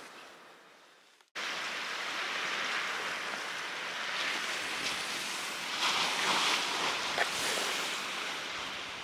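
Sea waves washing at the shore, a steady rushing noise that starts abruptly about a second in and swells a little midway.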